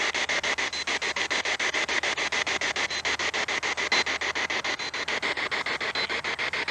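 Spirit box sweeping through radio stations: a steady hiss of static chopped into rapid even pulses, about ten a second, with a few faint short beeps.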